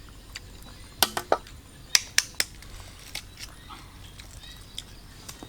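Sharp clicks or knocks in two quick groups of three, about one and two seconds in, over a faint outdoor background.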